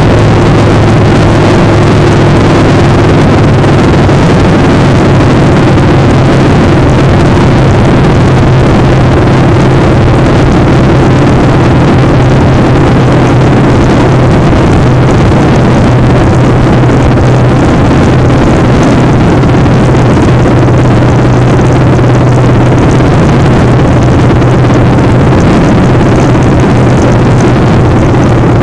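Motorcycle engine running at a steady, near-constant pitch while riding, under a loud rush of wind on the microphone.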